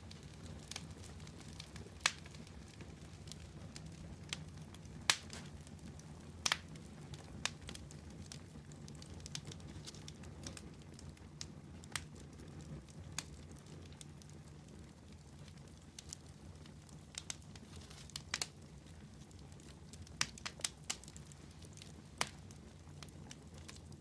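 Wood campfire crackling, with irregular sharp pops and snaps scattered every second or so over a low steady hum.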